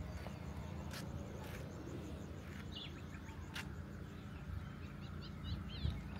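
Small birds chirping in short high calls, a cluster about halfway through and more near the end, over a steady low rumble; a few sharp clicks early on.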